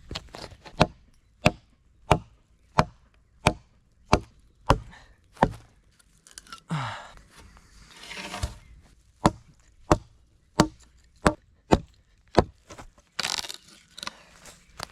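Repeated chopping strikes into wood, about one and a half blows a second, as firewood is cut from an old dry log. The chopping pauses twice for short stretches of rustling and splintering.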